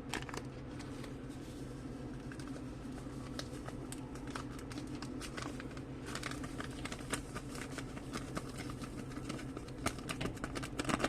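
Light clicks and rustling from small objects being handled, over a steady low hum; the clicks come in brief clusters about six seconds in and again near the end.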